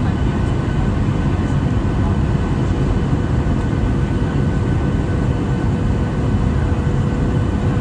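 Steady jet engine noise of a Boeing 737-800's CFM56 turbofans: a constant low rumble with a thin steady whine running through it.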